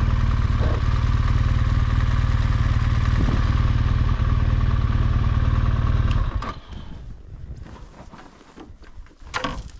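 BMW R1200GSA boxer-twin engine running at a steady speed, then switched off about six seconds in. A few light clicks and knocks follow.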